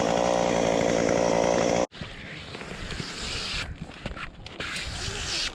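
Two-stroke chainsaw running at a steady speed, breaking off abruptly about two seconds in. After that come quieter irregular rustling and knocks.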